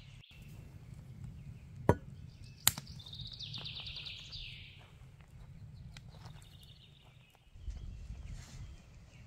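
A songbird singing a fast trill of high repeated notes about three seconds in, with a fainter trill near six seconds. Two sharp snaps come just before it, over a low steady rumble.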